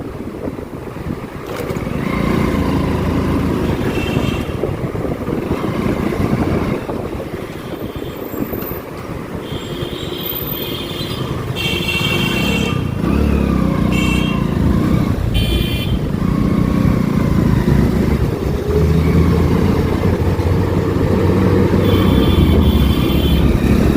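Motorcycle riding through traffic, the engine running under steady road and wind noise, with several short vehicle horn honks along the way.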